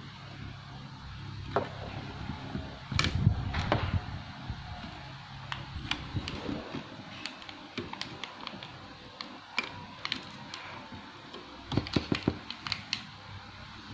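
Irregular sharp plastic clicks and taps from a laptop's bottom case being pried open, its snap-fit clips coming loose, with a denser cluster of snaps about three seconds in and again near the end.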